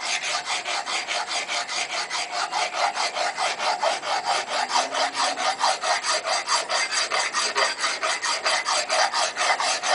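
Hand file rasping on a steel railroad-rail anvil, rounding over an edge with rapid, even strokes, about four a second.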